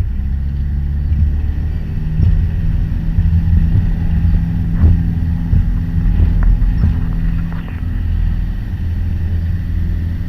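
Piper PA-28 Warrior's four-cylinder Lycoming engine and propeller running at full power for the takeoff of a touch-and-go, a steady loud drone heard from inside the cockpit, with a few faint clicks.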